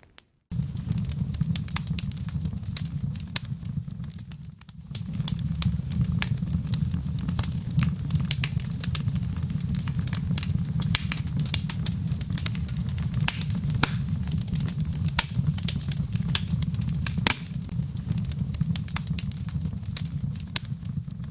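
Wood fire crackling and popping, with many sharp irregular clicks over a steady low rumble. It starts after a brief silence about half a second in and dips for a moment around five seconds in.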